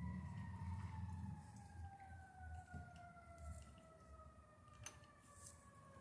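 Fire truck siren sounding one long tone that slides slowly and steadily downward in pitch, winding down as it fades. A low engine rumble dies away in the first couple of seconds.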